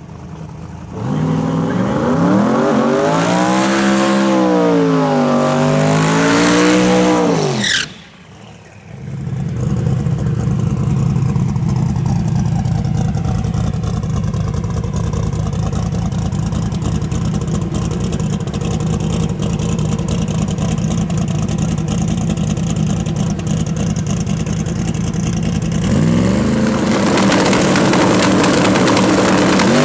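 Drag-race car engines. An engine revs hard, its pitch climbing and wavering, then cuts off suddenly about eight seconds in. Another engine then runs at a steady pitch for a long stretch, and near the end an engine revs up again with a rising pitch.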